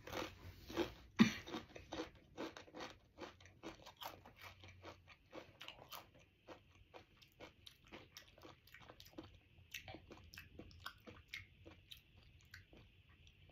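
A person chewing a crunchy Paqui Haunted Ghost Pepper tortilla chip: a run of crisp crunches, about two or three a second, loudest in the first couple of seconds and growing softer and sparser as the chip is ground down.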